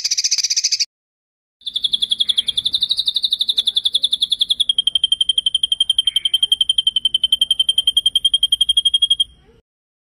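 Songbird-training (masteran) recording of a rolling trill: a brief buzzy trill ends just under a second in, then after a short pause a long, high trill of quick even pulses starts, drops slightly in pitch about halfway and stops near the end.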